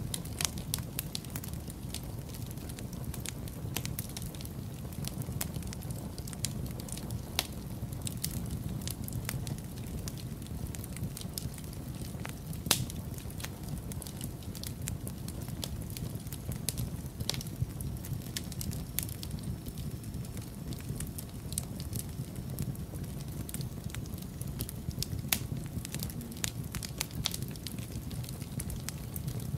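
Wood fire crackling in a fireplace, with frequent irregular pops and snaps and a few louder ones, over a steady low rumble.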